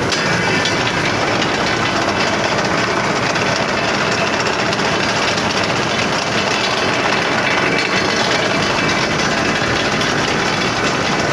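Truck engine running steadily and loudly, with no rise or fall in speed.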